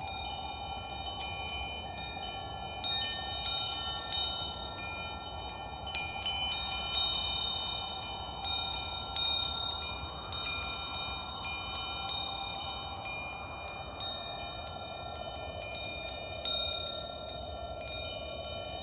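Wind chimes ringing, struck at uneven moments with the strongest cluster about six seconds in, over a soft, slowly wavering whooshing drone.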